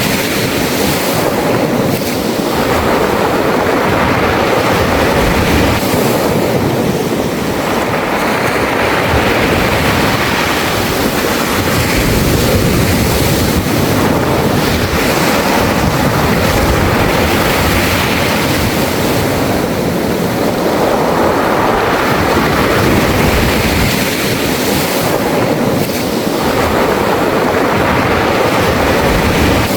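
Sea waves surging in and washing back over a beach of round, smooth pebbles (mongdol), the surf swelling and easing every few seconds as the stones rattle in the wash.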